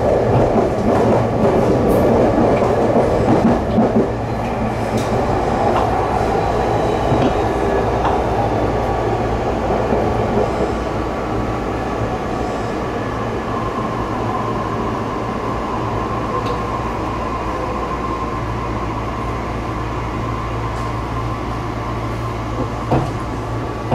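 Tobu Noda Line commuter train running between stations, heard from inside the passenger car: a steady rumble of wheels on rail and car noise, with a thin steady tone that comes through more clearly about halfway in.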